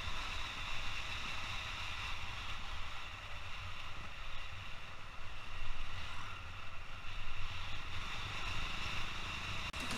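Wind rushing and buffeting over a helmet-mounted camera's microphone on a moving motorcycle, with the bike's engine faintly underneath.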